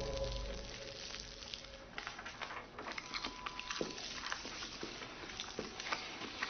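Music fading out, then irregular light clicks and taps, with a faint steady beep tone heard briefly twice.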